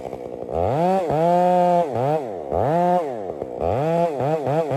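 Chainsaw engine revving up and down: it climbs to full revs and holds about a second in, drops, climbs and holds again, then gives several quick throttle blips near the end.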